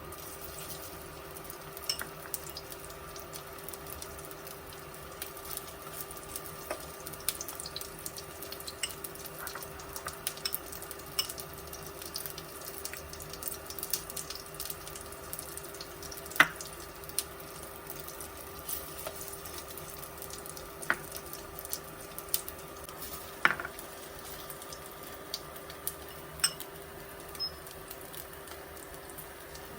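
Oil sizzling and crackling in a frying pan as egg-dipped sticky rice cake (tikoy) slices fry, with a few sharper clicks and a steady faint hum underneath.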